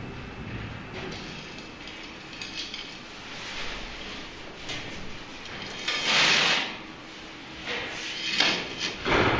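Automatic pellet fireplace running, with irregular metallic clattering and clinking, typical of pellets dropping into the burn pot. The loudest rattle comes about six seconds in, with shorter ones near the end.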